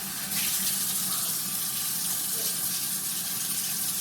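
Kitchen tap running water into a sink. It is turned on about a third of a second in and then flows steadily.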